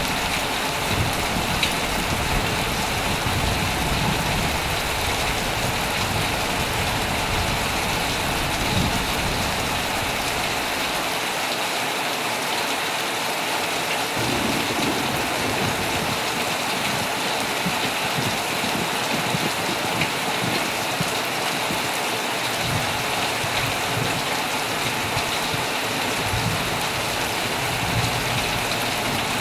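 Heavy rain falling steadily on a tent, with a low rumble of thunder that fades out about ten seconds in and returns more faintly a few seconds later.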